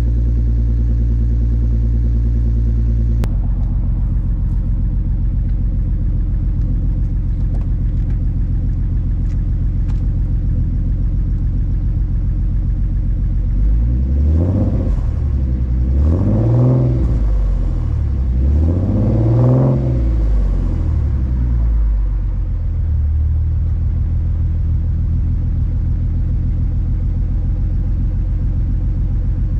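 Car engine idling, its note dropping lower after a click about three seconds in; about halfway through it is revved three times in a row, each rev rising and falling, then settles back to a steady idle.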